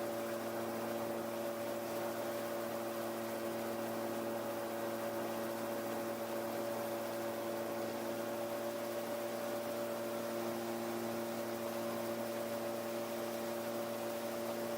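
Kallithea gyroplane's engine and propeller droning steadily in flight, heard as an even hum made of a few steady tones over a light hiss.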